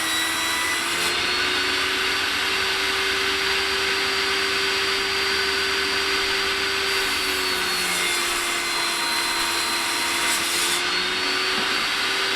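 Electric heat gun running steadily, a fan whine over a hiss of blown air, its pitch dipping slightly about two-thirds of the way through and rising again.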